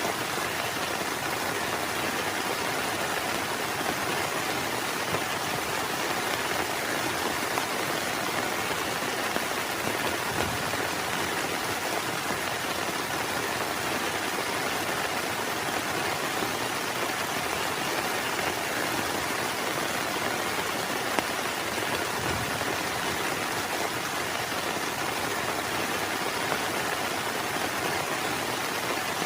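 Heavy rain falling steadily, an even hiss with the odd slightly louder drop.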